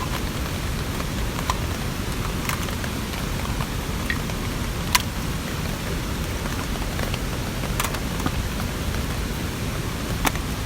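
Steady rain, with single heavy drops landing sharply every couple of seconds, one near the middle louder than the rest.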